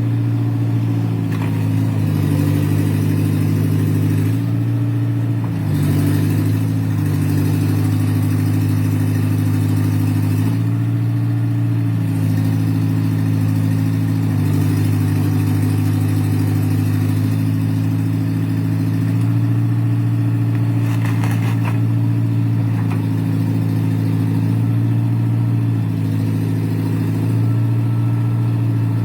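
A JCB excavator's diesel engine running steadily under working load, its pitch dipping and recovering every few seconds as the digging and levelling load comes and goes. There is a brief clatter about two-thirds of the way through.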